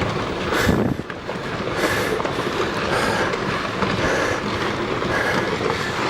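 Kizimen volcano erupting: a steady, continuous rumble with a few brief louder surges.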